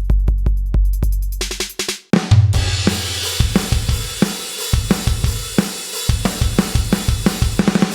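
KAT Percussion KT4 electronic drum kit played through its sound module: a steady beat with long, deep electronic bass-drum booms, a brief break about two seconds in, then a different kit sound comes in with a cymbal crash and a groove of bass drum, snare and hi-hat.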